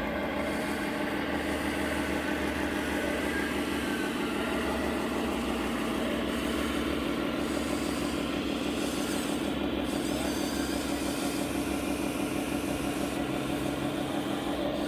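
An engine idling steadily, a constant low drone with no revving.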